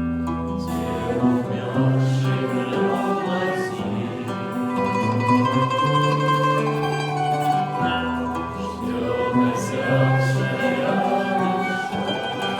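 A small ensemble playing music, with plucked string instruments carrying the melody over held low bass notes.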